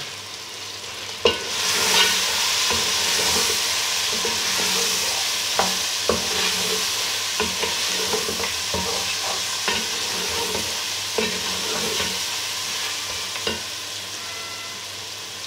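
Mutton, tomatoes and ground spices sizzling in oil in a metal pot as they are fried and stirred with a spatula. The spatula knocks and scrapes irregularly against the pot. The sizzle swells about a second and a half in as the stirring starts and then holds.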